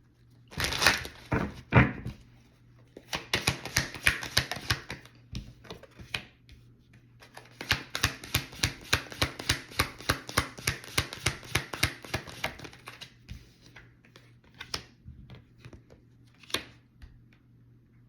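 Tarot cards being shuffled by hand: clusters of papery card clicks and slaps, with a fast run of about six clicks a second for several seconds in the middle, then a few scattered clicks.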